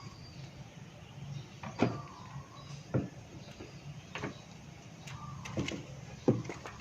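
Tools and engine parts being handled during small-engine repair work, making about five irregular knocks and clicks over a low steady hum.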